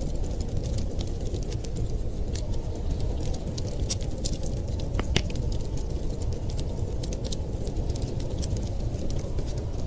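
Wood fire crackling, with scattered sharp pops and one stronger pop about halfway through, over a steady low rumble of blizzard wind.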